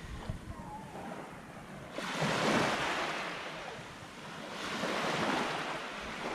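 Small waves breaking and washing up a sandy beach: two surges of surf, the first starting sharply about two seconds in, the second swelling and fading near the end.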